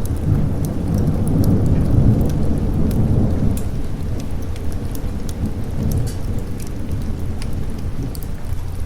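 Rolling thunder rumbling over steady rain, heaviest in the first few seconds and then easing off. Scattered sharp ticks sound throughout.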